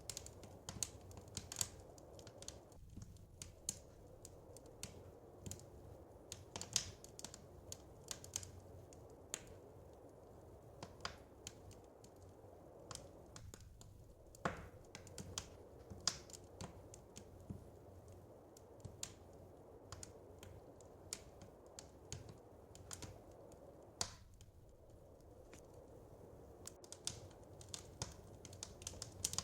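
Wood fire crackling: irregular sharp pops and snaps, some much louder than others, over a low steady rumble of the burning fire.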